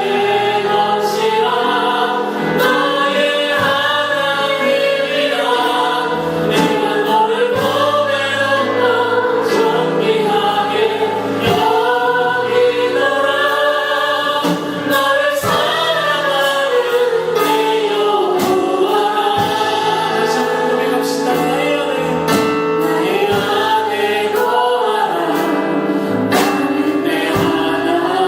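Choir and congregation singing a gospel praise song with band accompaniment and a steady drum beat.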